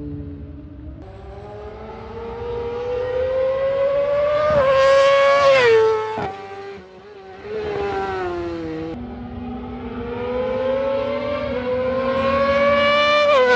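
High-displacement racing motorcycle engine revving, climbing steadily in pitch for about four seconds and then dropping off sharply; it climbs again from about nine seconds and drops off again near the end.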